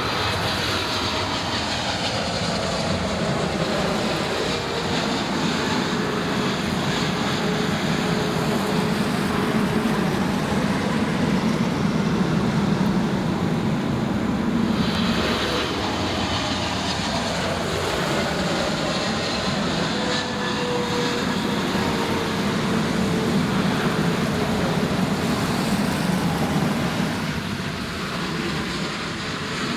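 Jet airliner engines passing at the airport, a steady loud roar with an engine whine that slides down in pitch, once early on and again about halfway through.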